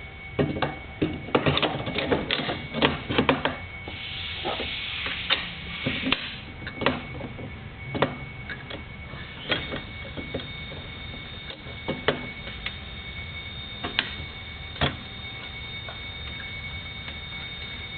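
Metal parts of a chop saw being handled and fitted back together by hand: a quick flurry of clicks and small knocks, a brief rattling scrape about four to six seconds in, then scattered single clicks as the thumb screw is put back in.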